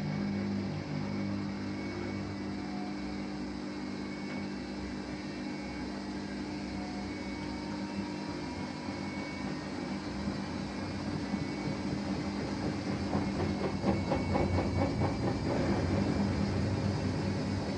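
Samsung Eco Bubble washing machine running with a steady hum that does not rise or fall in pitch. About thirteen seconds in, a rougher, rapidly pulsing stretch joins it for a few seconds.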